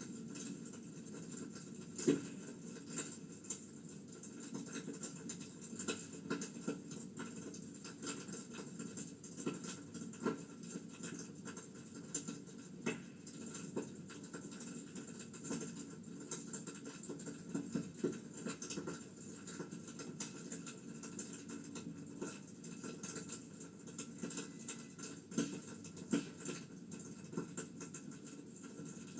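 Wood fire in a fireplace crackling: irregular pops and snaps over a steady low hiss, with one louder snap about two seconds in.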